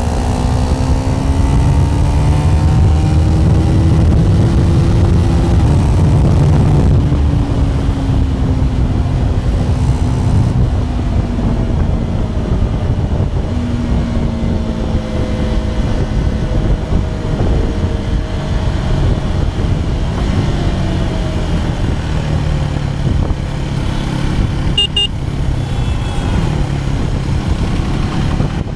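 KTM Duke 390 Gen3 single-cylinder engine under way, revs climbing through the first five seconds, dropping at a gear change, then falling and rising again with the throttle. A brief high beep sounds about 25 seconds in.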